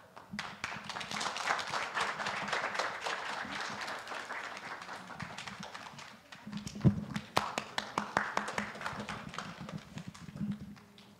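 Congregation applauding: a dense patter of hand claps that thins to scattered individual claps about halfway through.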